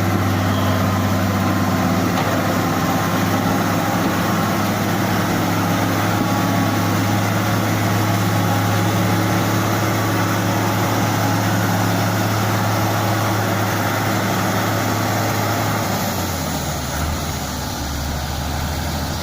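Heavy-equipment diesel engine running steadily; near the end its speed drops and it settles to a lower hum.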